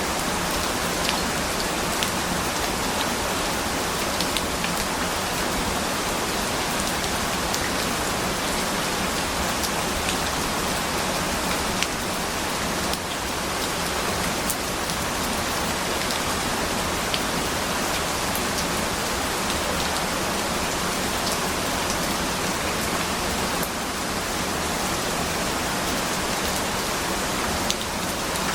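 Steady rain falling: a dense, even hiss, with now and then the sharper tick of a single drop.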